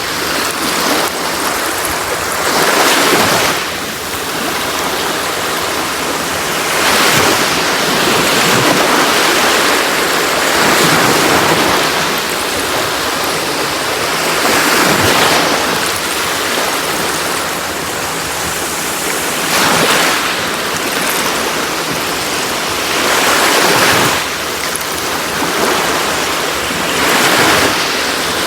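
Sea waves washing onto a shore, a steady rush of surf that swells as a wave breaks every three to four seconds.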